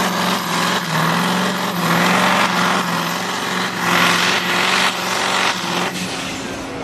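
A competition tractor's engine running loud and steady during a tractor pull, with a strong exhaust hiss over the engine note. It eases off slightly in the last second.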